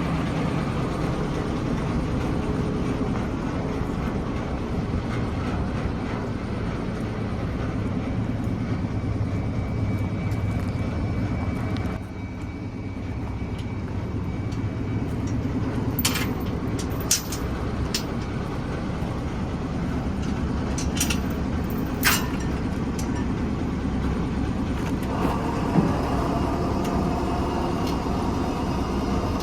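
Isuzu diesel engine of a GMC TopKick C7500 truck running steadily, dipping briefly about twelve seconds in. A few short, sharp sounds come over it past the halfway point.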